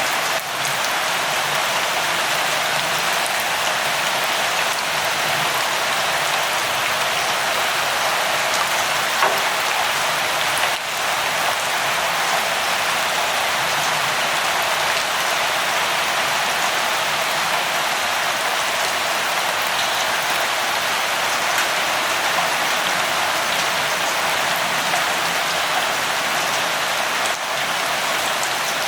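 Steady rainfall, an even hiss of rain drops on a surface with no thunder.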